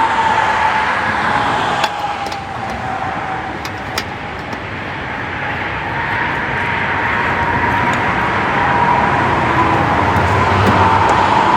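Road traffic going by: a steady rush of vehicle noise with a wavering whine, growing a little louder near the end. There are two light clicks, about two and four seconds in.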